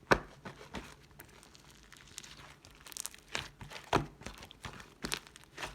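Slime being pressed and pulled by hand, giving irregular sticky clicks, pops and crinkles, with a sharp pop right at the start and a busier burst about three to four seconds in.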